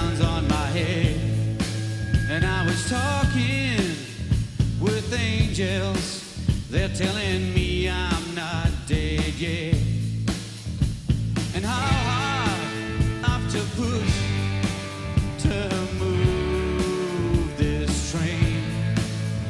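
Live rock band playing: electric and acoustic guitars over bass and drums, with bending melodic lines.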